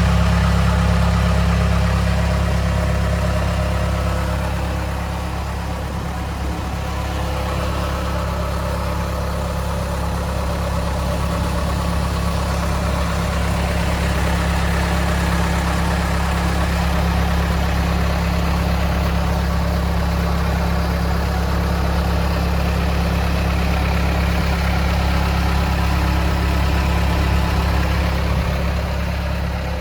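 CASE 445 skid steer's diesel engine idling steadily.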